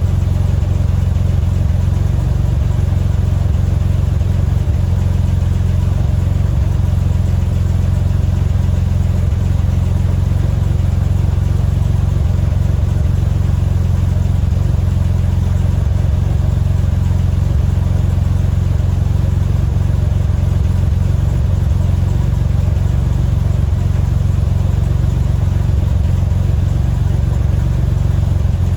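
1985 Chevy S10's carbureted 2.8-liter V6 idling steadily, exhausting through a Borla muffler with no tailpipe after it, a constant low exhaust note.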